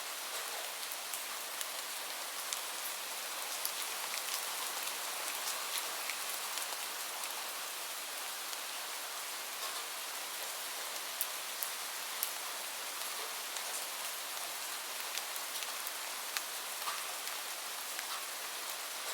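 Steady rain, an even hiss scattered with many small sharp ticks of drops.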